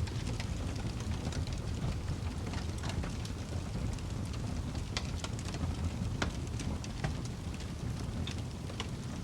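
Fireplace fire burning with a steady low rumble and frequent crackles and pops, a few sharper pops standing out.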